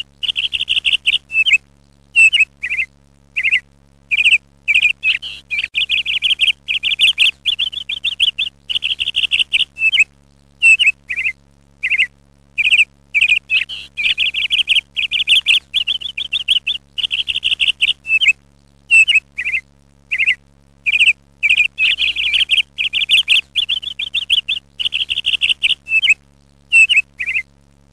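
Small birds chirping in rapid, high-pitched trilled bursts with short pauses between them, repeating without letup.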